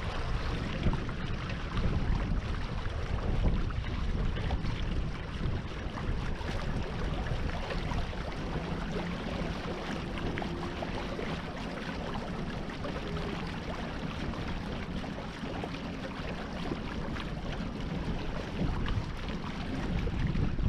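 Wind buffeting the microphone over the steady rush of water along a small sailboat's hull while under way.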